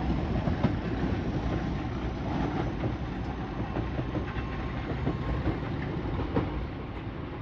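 A train running past on the line, its wheels clattering over the rail joints with scattered clicks, and the sound easing off toward the end.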